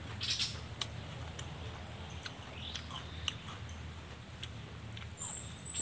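Close-up chewing and biting: scattered crisp clicks and crunches of a person eating raw cucumber with roasted fish. Near the end a high whistle falls slightly in pitch.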